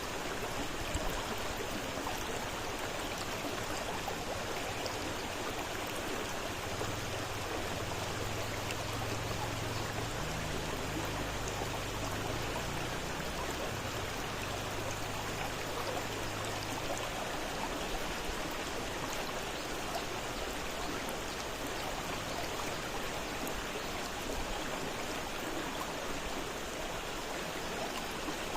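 Fast-flowing river rushing steadily over its bed. A faint low hum sits underneath it from about 7 to 17 seconds in.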